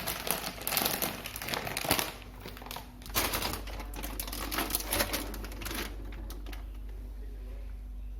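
Quick, irregular clicking and rattling of small hard objects being handled, busiest in the first six seconds and thinning out after.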